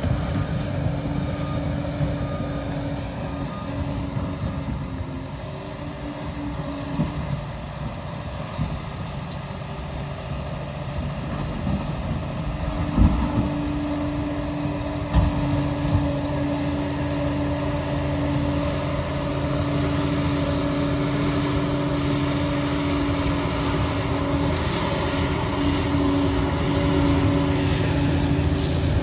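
Liebherr PR 746 crawler dozer at work: its diesel engine runs steadily with a humming tone over a low rumble and mechanical clatter. A few sharp knocks come about halfway through.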